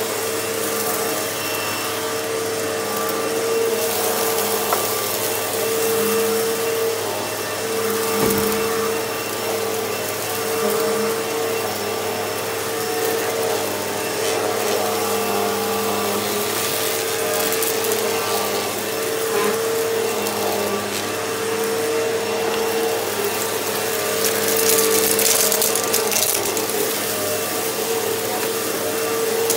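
Hoover Elite Rewind upright vacuum cleaner running steadily, its motor holding one constant whine under a rushing hiss of air. The hiss swells louder for a couple of seconds near the end.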